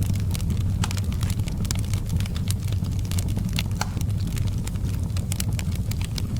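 Wood fire burning in a fireplace, with frequent irregular crackles and snaps over a steady low rumble.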